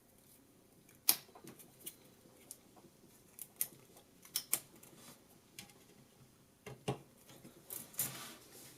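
Irregular light clicks and taps of small plastic pieces being handled, about ten in all, as letters are fitted into a magnetic fridge pegboard.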